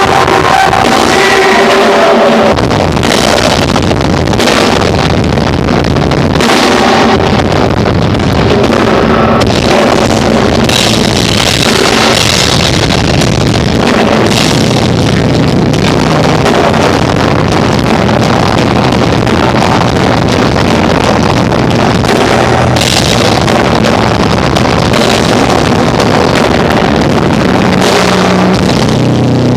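Live rock power trio playing loud: electric guitar, bass guitar and drum kit with frequent cymbal crashes. The recording is overloaded and harsh.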